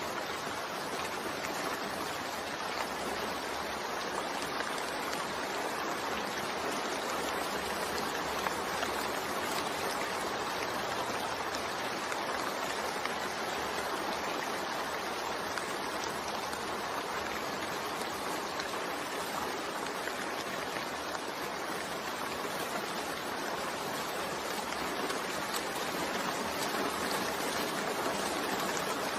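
Steady gentle rain: an even, unbroken hiss that does not change.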